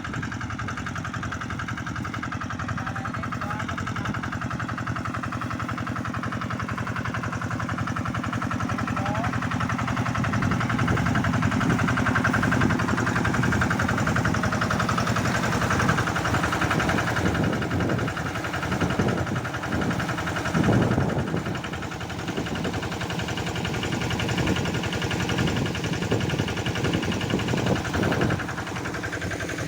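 An engine running steadily, louder from about ten seconds in, with uneven surges in the second half.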